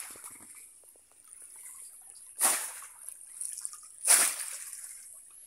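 Bamboo polo trap plunged into shallow floodwater, making a sudden splash twice, about two and a half and four seconds in, with lighter water sloshing between.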